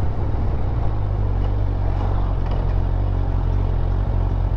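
Motorcycle engine running at a steady speed on the move, a constant low engine note under wind and road noise.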